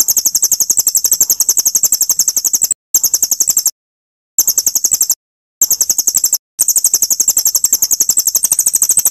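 Recorded songbird chatter used as masteran (training song) for white-rumped shamas: a fast, even run of very high-pitched notes, about a dozen a second, in phrases broken by short dead-silent gaps where the recording is spliced.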